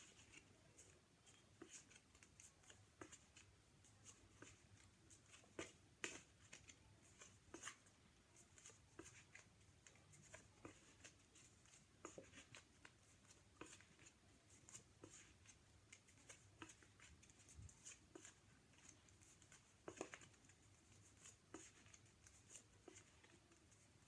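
Near silence: room tone with a faint low hum and scattered small clicks and rustles.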